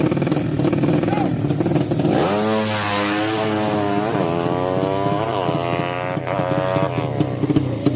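Race motorcycle engines idling and clattering, then about two seconds in a 200cc sleep-engine drag motorcycle launches and accelerates hard, its pitch climbing and dropping back at each of about four gear changes before it fades out near the end.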